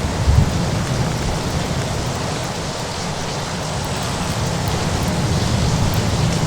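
Steady rain with a low rumble of thunder rolling underneath, swelling and easing, and one brief low thump about half a second in.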